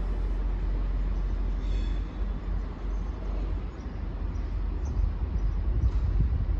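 Low, steady rumble of a passenger train pulling away along the station tracks, with a brief high-pitched squeal about two seconds in.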